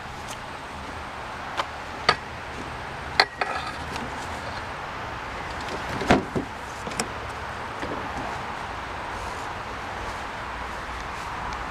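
A handful of sharp knocks and clicks, one of them followed by a brief ringing, over a steady outdoor background.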